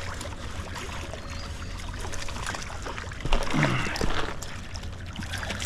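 Water trickling and splashing, over a steady low rumble with small clicks scattered through it. A brief voice sound comes about three seconds in.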